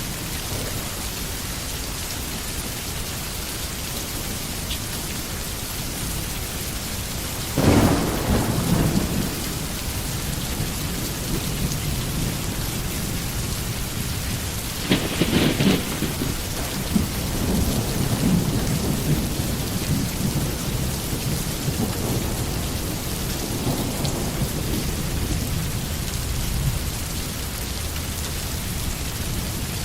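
Steady rain falling, with two claps of thunder, one about a quarter of the way in and one around halfway, each followed by a few seconds of low rumbling.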